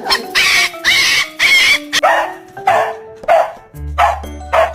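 A dog barking repeatedly, about eight short barks at a steady pace of roughly two a second, over background music.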